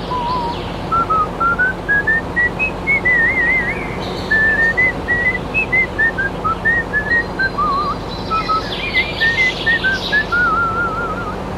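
A whistled tune: a melody of short notes stepping up and down, with a few warbling trills.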